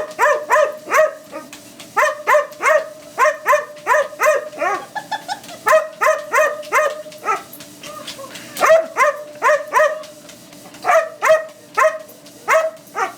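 Dog barking in rapid runs, about two to three barks a second, with a few short breaks. A steady hum from the running treadmill lies underneath.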